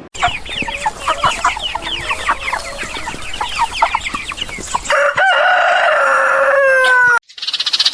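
Chickens calling in a rapid flurry of short clucks and chirps, then a rooster crowing one long call of about two seconds that cuts off abruptly.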